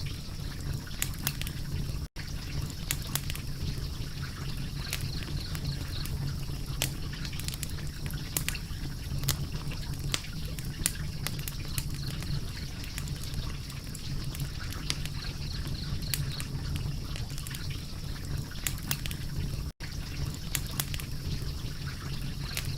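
Wood fire crackling, with dense irregular small pops and snaps over a steady low rumble. The sound cuts out for an instant twice, about 2 seconds in and near the end.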